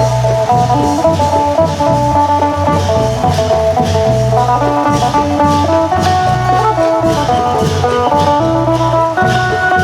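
Isan phin, a plucked lute, playing a fast repeating melody over the low beat of klong yao long drums.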